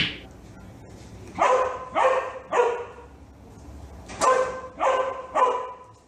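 A dog barking: two sets of three short barks about half a second apart.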